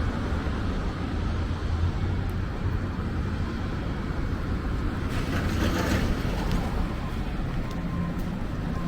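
Street traffic: a steady low rumble, with a vehicle passing whose tyre hiss swells about five to six seconds in.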